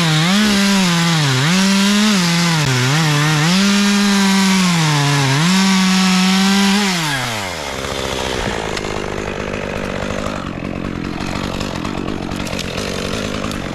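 Chainsaw run at full throttle, its revs dipping and recovering several times as the chain loads up in the wood, then falling back about seven seconds in.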